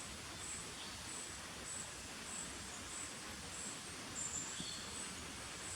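Faint outdoor background with a small bird calling: a run of thin, very high-pitched chirps, roughly one every half second.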